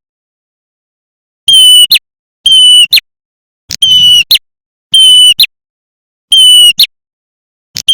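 Lure recording of a prenjak merah (red-headed prenjak) calling: a loud, buzzy, one-pitched note repeated about six times, roughly once a second, each ending in a quick upward flick. The first second or so is silent.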